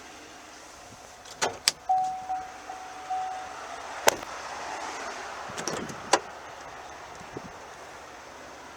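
Handling sounds from a GMC Yukon XL Denali's door: several sharp latch clicks and knocks, with a short run of electronic chime beeps about two seconds in and some rustling around the middle.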